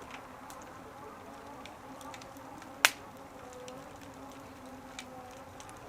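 Wood fire crackling, with scattered small snaps and one loud sharp pop about three seconds in, over a faint steady hum.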